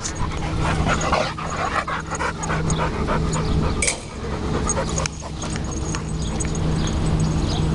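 A dog panting close by, in quick rhythmic breaths, with a brief sharp sound about four seconds in.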